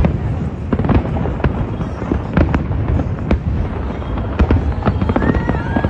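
Fireworks going off: sharp bangs in quick, irregular succession, roughly two a second, over a continuous low rumble of further bursts.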